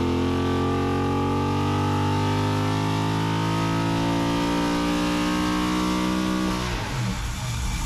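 Built 6.0-liter LS V8 running steadily on an engine dyno. About six and a half seconds in, its note falls away as the engine winds down.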